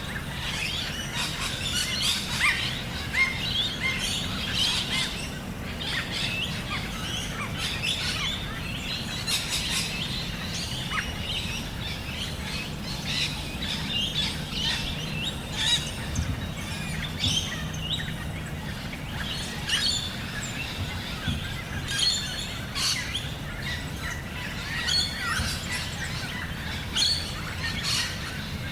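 Many birds chirping and calling all through, in quick short notes, over a steady low background noise.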